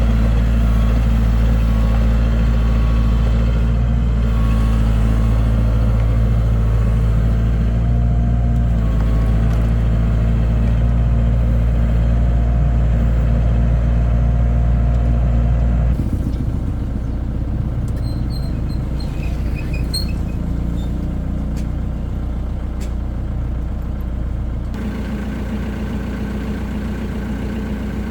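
Heavy diesel engine of construction machinery running steadily at a constant speed. About halfway through the sound shifts to a quieter, rougher engine note, and it shifts again a few seconds before the end.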